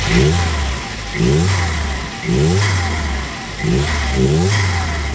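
A Volvo 940's four-cylinder petrol engine being revved in short blips, about once a second. The engine note rises with each blip and drops back. It has just had new plugs and HT leads fitted, and the owner judges it to be running as well as ever.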